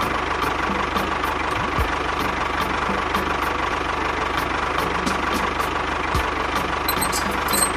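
Engine running steadily at idle, with a fast low pulsing under an even rushing noise.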